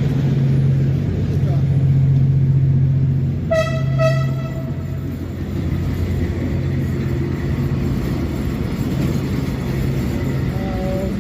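Two short blasts of a steam locomotive whistle, one pitched tone with many overtones, about three and a half seconds in, over a steady low rumble and voices.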